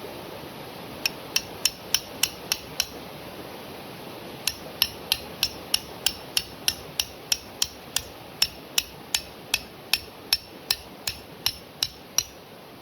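Quick, even hammer blows ringing on metal, about three to four a second: a short run of about seven, a pause, then a longer run of about two dozen. Steady rain hiss runs underneath.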